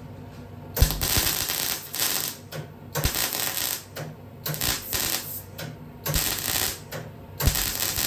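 Electric welder laying short stitch welds on a truck cab's sheet-metal patch panel: a series of five or six crackling bursts, each a second or less, each starting with a sharp strike.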